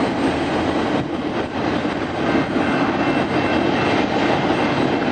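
Double-stack intermodal freight cars rolling past on the main line: a steady noise of steel wheels on the rails, with faint irregular clicks.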